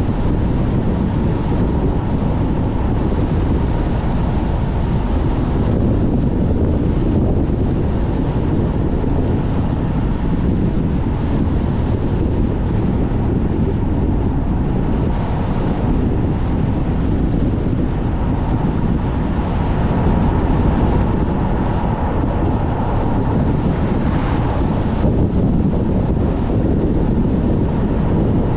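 Strong gusty wind rushing around a moving car, a loud steady rumble with the car's road noise underneath.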